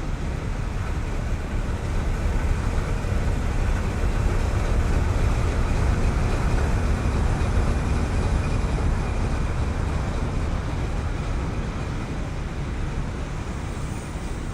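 Norfolk Southern manifest freight train rolling past, a steady low rumble of wheels and railcars that swells through the middle and eases off near the end.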